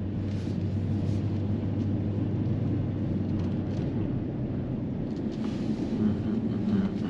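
Vehicle engine running with a steady low drone, the sound of a car or truck driving.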